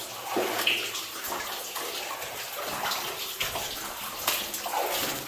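Footsteps wading and splashing through shallow water in a flooded mine level, with irregular sloshes.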